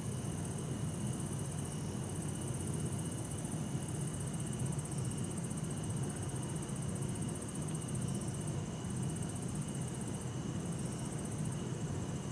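Bell crickets and other night insects trilling steadily in high, continuous ringing tones, over a constant low rumble of distant city traffic.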